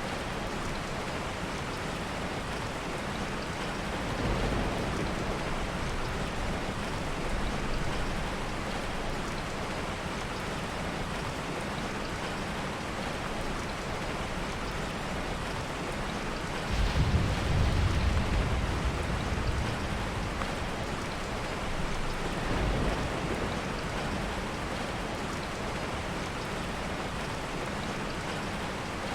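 Heavy, steady rain with several low rumbles of distant thunder, the loudest and longest about seventeen seconds in.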